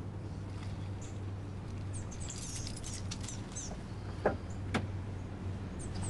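Pontiac Solstice GXP's turbocharged four-cylinder idling through a catless downpipe with a steady low drone. Birds chirp over it, and two sharp clicks come about half a second apart a little past four seconds in.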